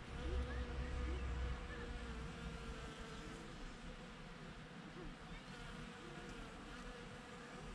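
Bees buzzing as they forage at the blossoms, the buzz wavering and sliding in pitch as they fly about. A low rumble sits under it in the first second and a half.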